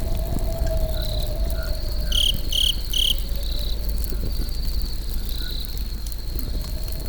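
Campfire crackling and hissing under a steady chorus of chirping crickets, with three loud, quick chirps about two seconds in.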